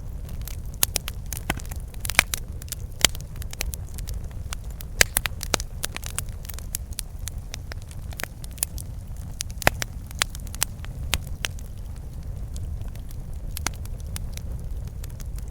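Campfire burning, wood crackling and popping in sharp snaps, many in the first few seconds and fewer after, over a steady low rumble.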